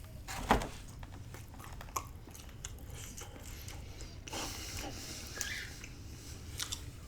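A person chewing pizza close to the microphone: soft wet chewing with small clicks and smacks, and one louder mouth sound about half a second in.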